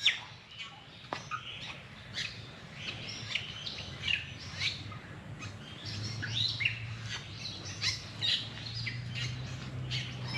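Bali starling singing, a string of short chirps and whistles. A low steady hum joins in about six seconds in.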